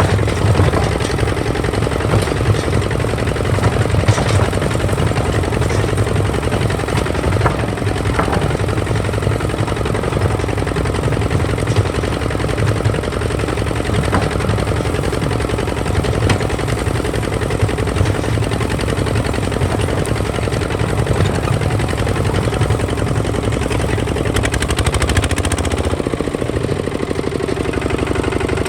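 Kubota ZT 155 DI single-cylinder diesel walking-tractor engine running steadily, a rapid even train of firing pulses.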